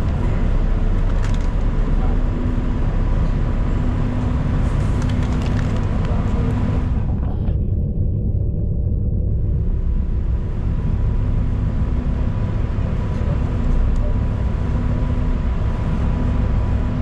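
Transit bus ride heard from inside the cabin: steady low engine and road rumble. The higher road hiss drops away for a couple of seconds about halfway through, then returns.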